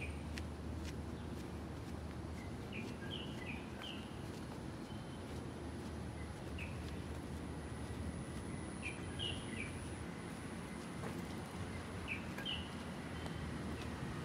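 Small birds chirping in short clusters of a few quick notes every few seconds. Underneath is a steady low outdoor rumble and a faint, steady high-pitched whine.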